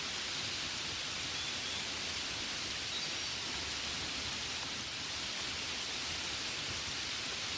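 Gentle rain falling steadily: an even, unbroken hiss without distinct drops.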